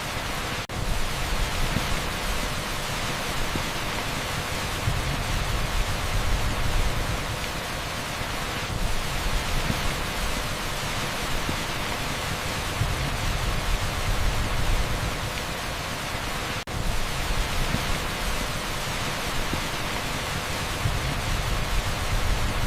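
Steady, dense hiss of a torrential downpour on an asphalt street, blended with heavy pink noise. It drops out for an instant twice, about a second in and again about sixteen seconds later.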